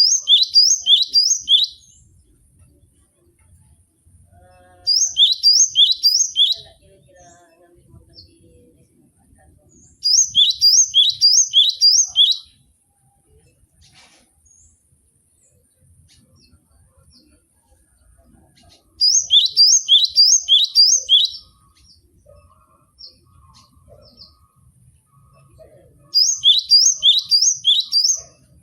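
Gelatik batu (cinereous tit) singing: five bouts of three to five quick repeated high notes, each note falling in pitch, each bout about two seconds long and separated by pauses of several seconds.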